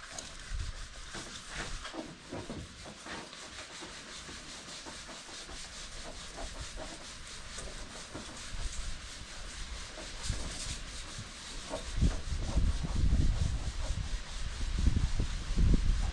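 Sandpaper rubbing by hand in irregular back-and-forth strokes. A low rumble joins in about twelve seconds in.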